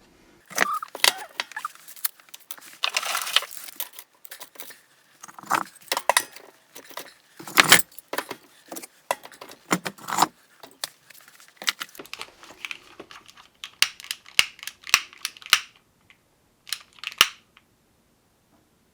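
Irregular clattering and clinking of kindling and the wood stove's metal parts as a fire that has gone out is rebuilt and relit, in quick bursts of short rattles that stop about 17 seconds in.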